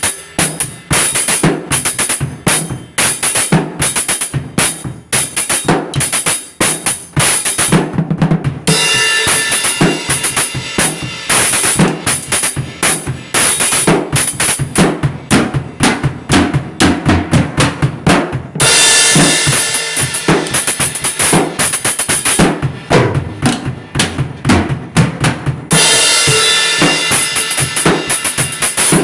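A drum kit played fast and continuously, with dense bass drum, snare and hi-hat strokes. Three times a sustained cymbal wash rings over the beat.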